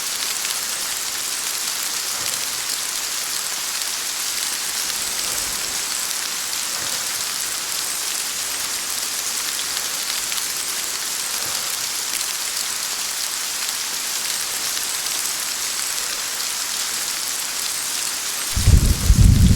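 Steady rain falling hard, an even hiss with no change in level. Near the end a sudden loud, low rumble of thunder breaks in over the rain.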